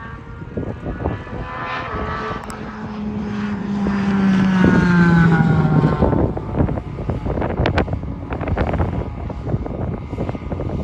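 A car passes at speed on the track, its engine note swelling to a peak about four to five seconds in and falling in pitch as it goes by. Wind buffets the microphone throughout.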